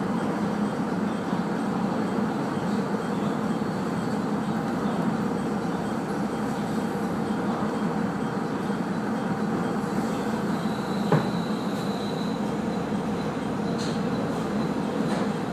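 Steady running noise inside a moving train: a rumble of wheels on rail and the car's machinery. About eleven seconds in there is a single sharp knock from the track, with a faint high wheel squeal around it.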